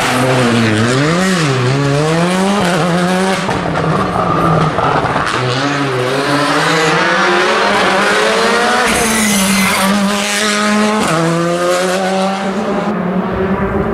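Rally car engine revving hard, its pitch climbing and then dropping back sharply several times as it shifts through the gears.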